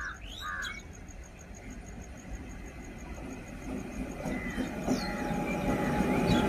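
Approaching WAG-9 electric locomotive hauling a freight train, its rumble growing steadily louder, with thin squeals of wheels on rail coming in near the end. A crow caws twice at the very start.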